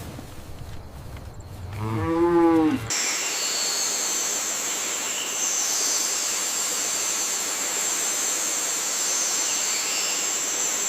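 A cow moos once, a short call that rises and falls, about two seconds in. The sound then cuts off suddenly into a steady hiss.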